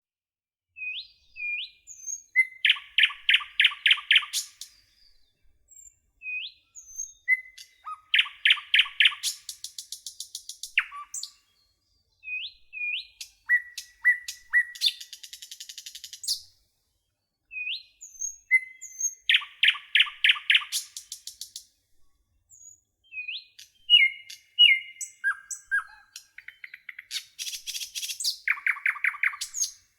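A songbird singing the same song phrase over and over, about every five to six seconds. Each phrase has a few short, high introductory notes, then a fast run of repeated notes and a very high, rapid trill at the end.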